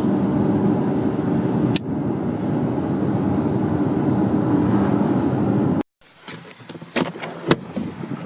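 Steady low road and engine rumble heard inside a moving car, with one sharp click about two seconds in. After about six seconds it cuts off abruptly to a much quieter stretch with a few sharp knocks.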